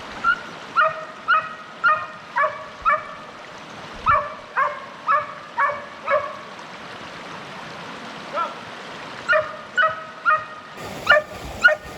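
Setter puppy yipping and barking in short high calls, about two a second, in several runs with pauses between, the sound of the pup balking at a stream crossing. A stream rushes steadily underneath.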